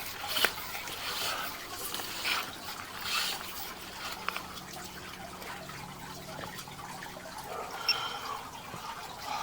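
Water trickling and dripping in a sewer drain line, with scattered small clicks and knocks.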